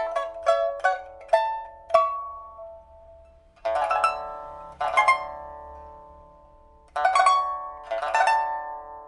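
Solo pipa, a 1983 Shen Huanchun instrument of old rosewood with white ox-horn fittings, newly fitted with a new soundboard and frets, being test-played. It opens with a quick run of plucked single notes. After a short pause come bursts of fast repeated strokes on full chords, each ringing out and fading.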